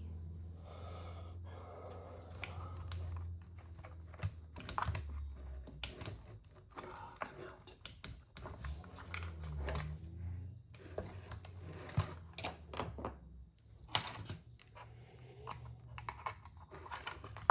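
Hands working small plastic and metal parts of an RC car chassis: a run of light, irregular clicks and taps, over a low hum in the first few seconds.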